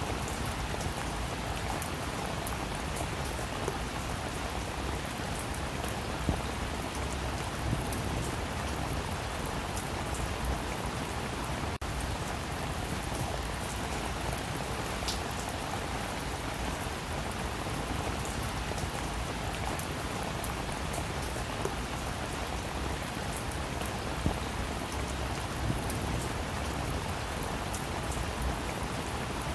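Steady rain falling, with scattered individual drops ticking on a surface now and then.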